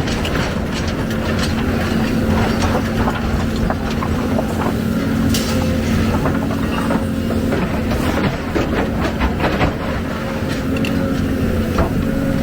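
Excavator's diesel engine running steadily under load, with frequent scattered clanks and knocks from the machine's working parts and the material it handles.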